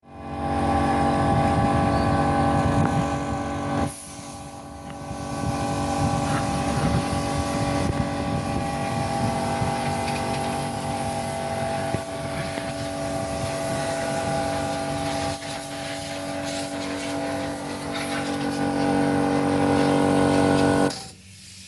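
Small air compressor with a 220 V electric motor running, a steady hum over the rough chugging of the pump. It drops in level briefly about four seconds in and stops abruptly near the end.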